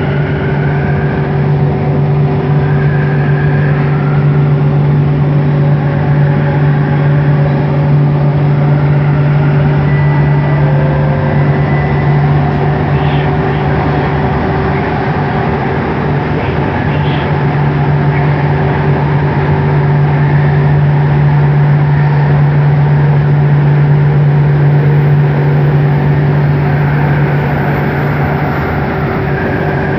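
Bombardier Innovia ART 200 metro train running at speed, heard from inside the car: a steady low hum from its linear induction motors over the rumble of wheels on the rail. The hum weakens for a few seconds midway, then returns.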